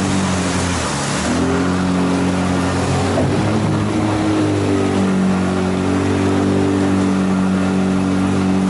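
Outboard motor on a motorized river raft running, its pitch dipping about a second in and then climbing again, under a steady hiss of rushing water and wind.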